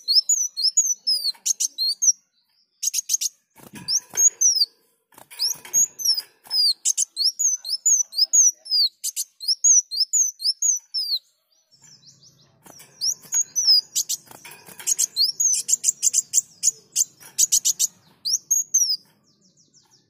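Kolibri wulung sunbird singing: a fast, high-pitched twittering song of short down-slurred notes and quick clicking trills, in bursts broken by brief pauses.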